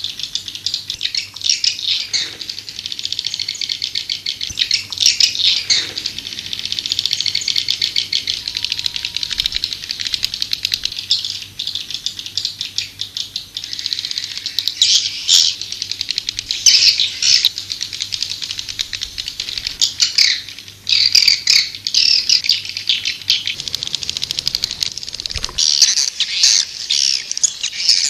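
Swiftlets twittering: a dense, unbroken chatter of rapid high chirps and trills. This is the swiftlet lure call played in swiftlet houses to draw the birds in to roost and nest.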